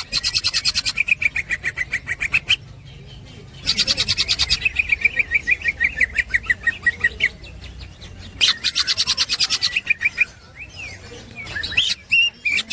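Greater green leafbird (cucak ijo) singing its fast chattering 'ngekek' song: three long runs of rapid, evenly repeated high notes, about ten a second, separated by short pauses, with a few scattered shorter calls near the end.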